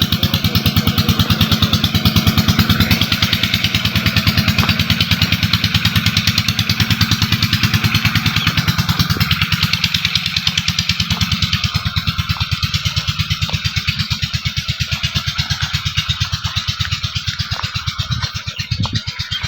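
Motorcycle engine running at a low, steady speed, with an even, rapid beat. It eases off a little about halfway through.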